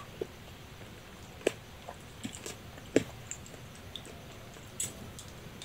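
Close-up chewing of spicy boneless chicken feet: scattered short, wet mouth clicks and smacks, the two loudest about one and a half and three seconds in.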